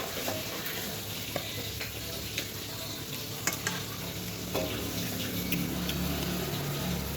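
Noodles being stirred in a sizzling pan: irregular clicks of a utensil against the pan over a steady sizzle.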